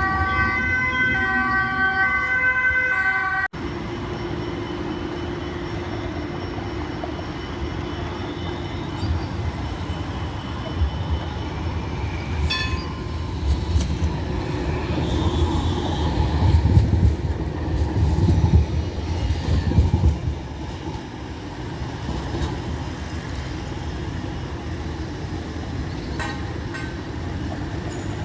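A steady multi-tone signal sounds for about the first three seconds, then stops abruptly. A Rotterdam city tram then rumbles past: its wheel and running noise build, peak about two-thirds of the way through, and fade back to a steady background.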